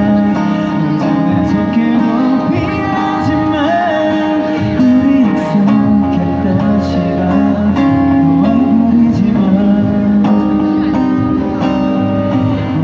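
Strummed acoustic guitar with a voice singing over it, a live song performance.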